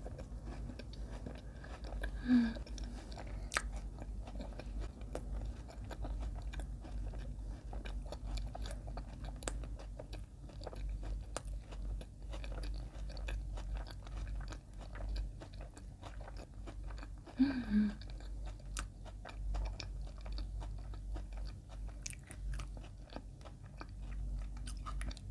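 Close-up mouth sounds of chewing soft white bread spread with crunchy Ovomaltine chocolate spread: steady wet chewing with many small crunches from the crispy bits. Twice a short, pleased hum, about two seconds in and again near eighteen seconds.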